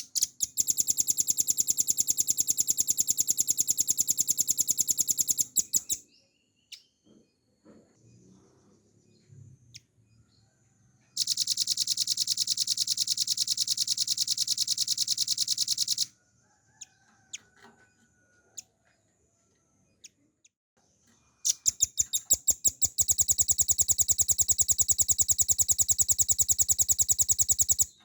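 Velvet-fronted nuthatch singing three long, very fast trills of about five seconds each, with pauses of about five seconds between them. The last trill begins with a few spaced notes that speed up into the rapid run.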